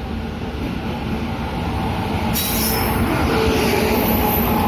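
Passenger train pulling into a station, its coaches rolling past with a steady rumble and rattle of wheels on the rails. About halfway in, a high hiss and squeal of wheels or brakes joins in and grows a little louder.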